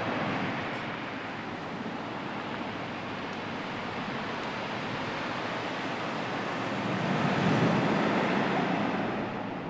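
Sea waves washing on the shore: a steady rush of surf that swells louder about seven seconds in as a wave comes in.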